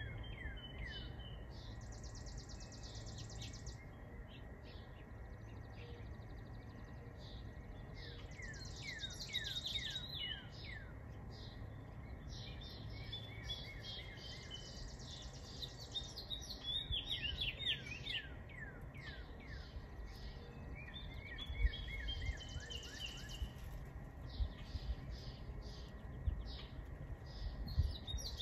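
Songbirds singing: many short falling chirps, and every several seconds a rapid trill lasting a second or two, over a steady low outdoor rumble with a few dull low bumps in the second half.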